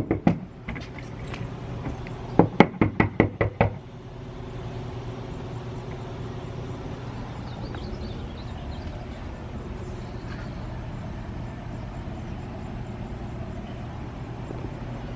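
Knuckles rapping on a house door: a quick run of about eight knocks a couple of seconds in, then a steady low hum.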